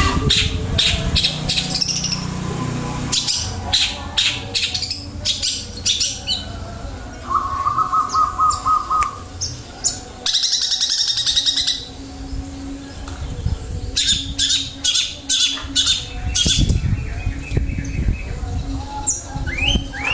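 Caged long-tailed shrike (cendet) calling in repeated bursts of high, harsh calls, with a short, even trill about halfway through.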